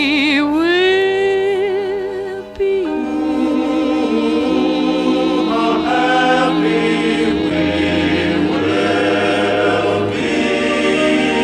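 Closing bars of a film-musical song with singing and orchestra. A singer holds a long note with vibrato that swells upward in pitch. After a short break about two and a half seconds in, a choir and orchestra sustain the final chords.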